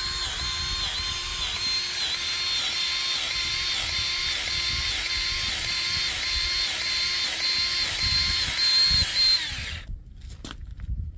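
Cordless grease gun motor running for about ten seconds, pumping grease into a snowplow's pivot knuckle. Its whine dips in pitch about twice a second with each pump stroke, then it stops, followed by a brief knock.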